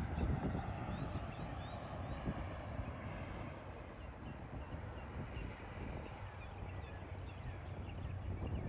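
Hi-rail truck running along the railroad track: a steady low rumble that eases off in the middle and grows again near the end.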